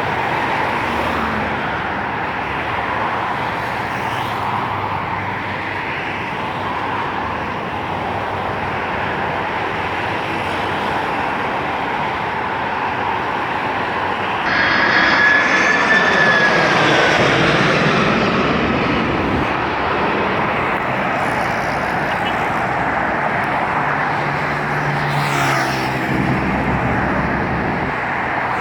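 Jet airliner engine noise: a steady roar that swells about halfway through with a high engine whine sinking slightly in pitch, then settles back to the steady roar.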